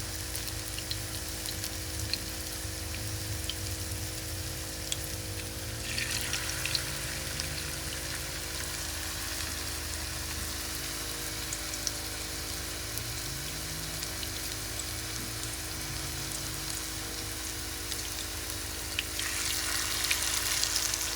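Potato latkes frying in hot oil in a pan: a steady sizzle with scattered crackles, swelling louder about six seconds in and again near the end. A faint steady hum sits underneath.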